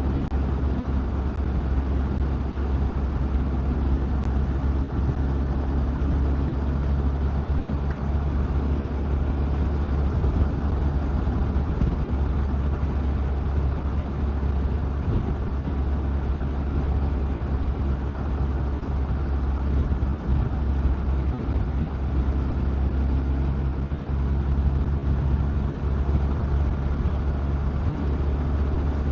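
Motorcycle running steadily while being ridden, with a heavy, even low rumble and no change in engine speed.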